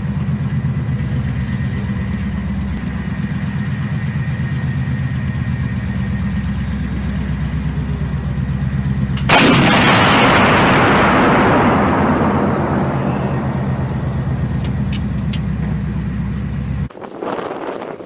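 A heavy engine runs steadily with a low, pulsing rumble. About nine seconds in, a single artillery gun fires: one very loud blast that rolls away over several seconds. Near the end the rumble cuts off abruptly.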